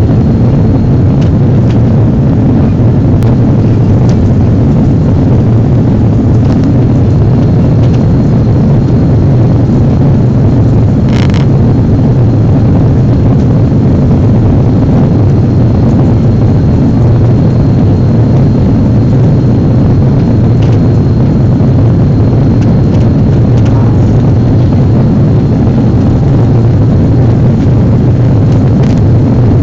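Steady, loud drone of an aircraft in flight heard from inside the cabin: engine and airflow noise, deepest in the low range, with a faint high whine running through it. A short click about eleven seconds in.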